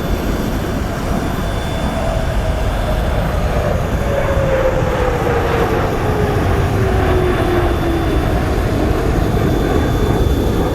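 Su-30SM fighter jet engines heard in a low pass, a loud steady rumble with a whine that falls in pitch as the jet goes by.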